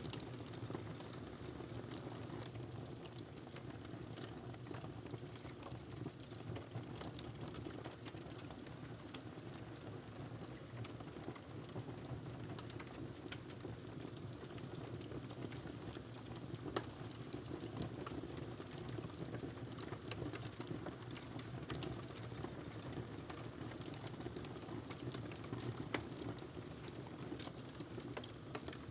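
Wood fire crackling in a fireplace: a steady low rumble with irregular small snaps throughout and two louder pops, about two-thirds of the way in and near the end.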